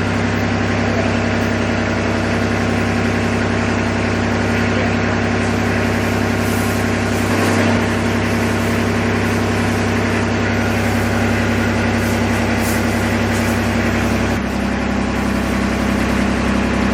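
Kubota engine idling steadily, its note shifting slightly about fourteen seconds in.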